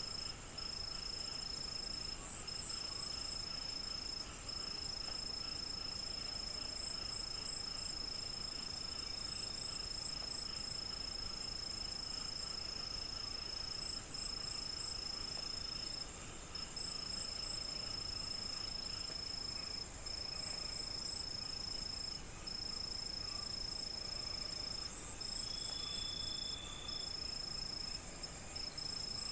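Crickets chirping in a dense night chorus: one high, continuous trill that drops out briefly every few seconds, layered over several rows of fast, pulsing chirps.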